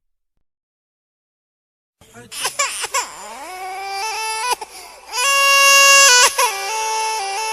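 Exaggerated crying meme sound effect: after about two seconds of silence, a loud wailing cry starts and goes on, its pitch moving up and down in held steps like a tune.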